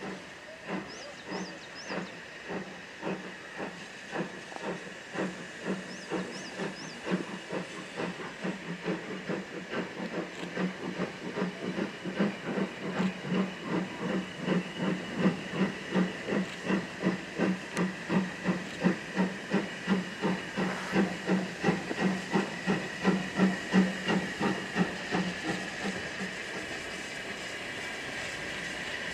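Steam locomotive chuffing as it pulls away, the exhaust beats getting quicker and louder, then giving way to a steady hiss near the end.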